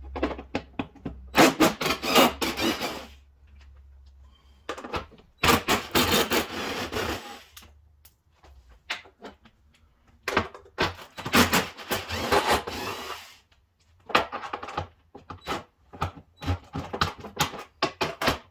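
Metal hand tools clicking and rattling in four bursts of one to three seconds, with short pauses between, as the fender-flare bolts are worked on.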